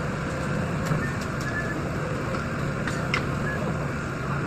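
Hydraulic static pile driver running steadily, its engine and hydraulics making a continuous low drone, with a few short clicks about a second in and again about three seconds in.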